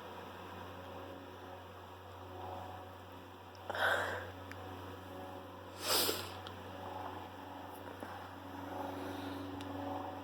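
A person sniffing twice, about two seconds apart, over a steady low electrical hum.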